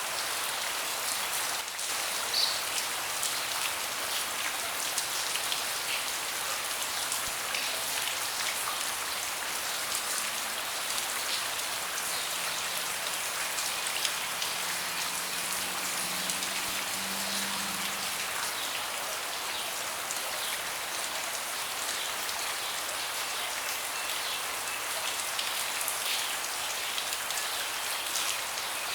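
Steady rain falling on a deck, an even hiss of rainfall with scattered individual drops ticking. A faint low hum comes and goes around the middle.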